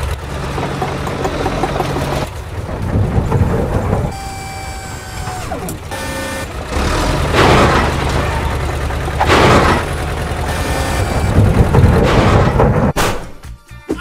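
Dubbed cartoon-style sound effects: a vehicle engine running, with loud crashing bursts about seven and a half and nine and a half seconds in and again near the end, over background music.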